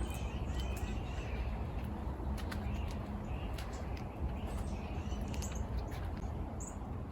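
Small birds chirping over a steady low rumble, with scattered short clicks; a few high chirps stand out near the end.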